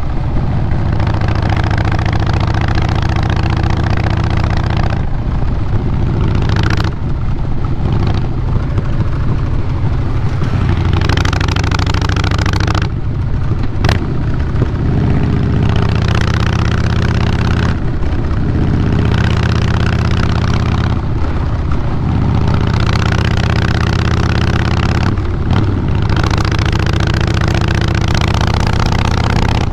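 Harley-Davidson Fat Boy Lo's Twin Cam 96B V-twin running through a Vance & Hines Big Radius 2-into-2 exhaust. The engine speed drops and picks back up several times, with the throttle rolled off and on, and there is a single sharp click about 14 seconds in.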